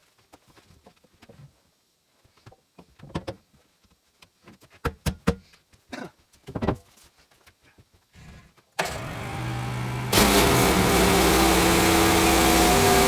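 A few knocks and clicks, then the Woodland Mills HM130 sawmill's petrol engine starts about nine seconds in. It picks up a second later and settles to a steady run.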